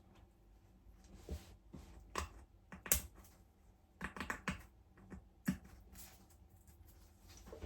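Irregular light clicks and taps of small hard parts being handled, with the sharpest ones about three seconds in and again around four and five and a half seconds in.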